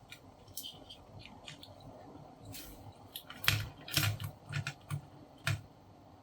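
A series of small sharp clicks and taps from handling tools and the label maker's small parts on a workbench, sparse at first, then louder and closer together from about three and a half seconds in.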